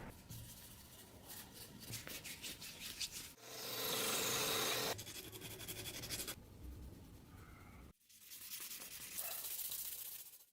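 Hand rubbing and scraping with an abrasive on the axe, in short edited takes: quick repeated strokes, then a steadier, louder hiss of rubbing. Sharp cuts separate the takes.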